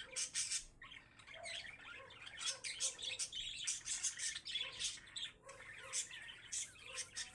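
Parakeets chattering in a continuous stream of short chirps and squawks.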